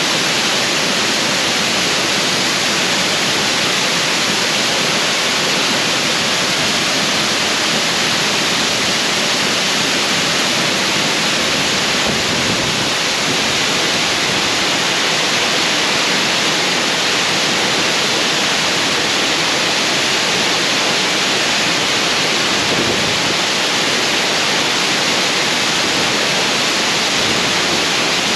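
Waterfall: a steady, loud rush of falling water, with no breaks or changes.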